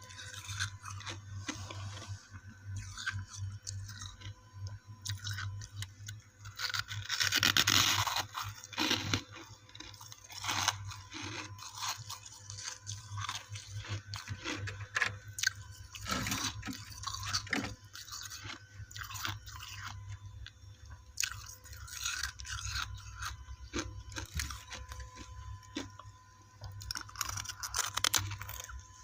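Ice chunks coated in freezer frost being bitten and chewed: irregular crisp crunching and squeaky crackles, with the loudest crunch about a quarter of the way in.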